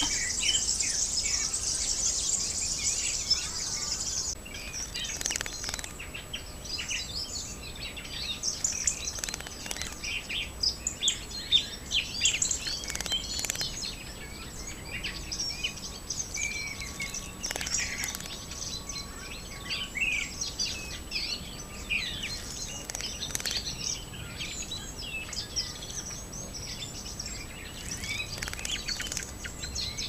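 Small birds chirping and calling, many short high calls overlapping. For the first four seconds a dense high-pitched insect buzz sounds, then stops abruptly.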